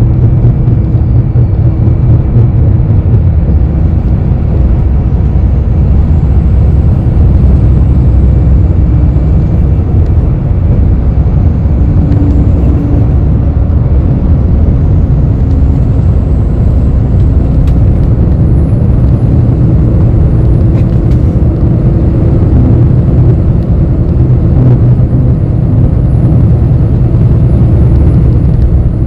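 Interior noise of a city bus on the move: a steady low engine and road rumble with faint shifting drivetrain tones and a thin high whine.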